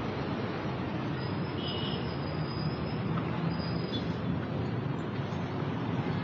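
Steady road traffic: vehicle engines running with a low hum and tyre noise.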